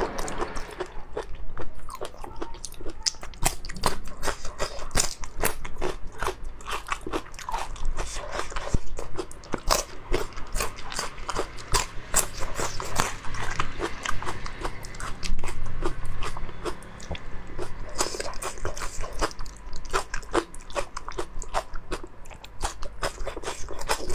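Close-miked biting and chewing of raw marinated prawns: the shells crunch and crack in rapid, irregular clicks.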